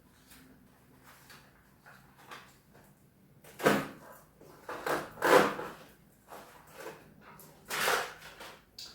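Handling noises from items being unpacked: a handful of sudden knocks and rustles, the loudest about four, five and eight seconds in, with quiet between.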